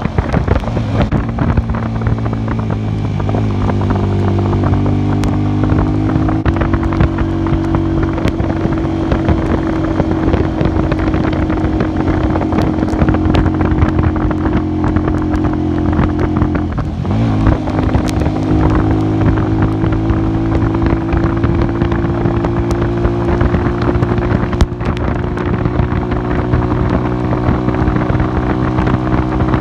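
A 150 cc cafe racer motorcycle's engine running under way, its pitch climbing over the first few seconds and then holding steady, with a brief sharp drop and recovery a little past halfway. Wind hisses across the microphone throughout.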